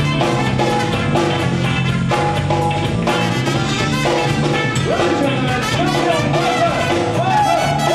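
Live band music: a horn section punching short chords over drum kit and bass, with a single horn line bending in pitch from about five seconds in.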